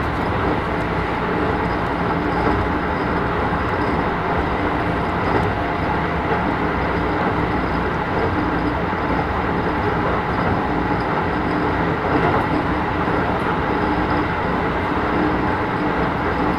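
Keisei 3000 series commuter train (Toyo IGBT-VVVF) running at steady speed, heard from inside the passenger car: even rolling noise of wheels on rail with faint steady tones and no rise or fall in pitch.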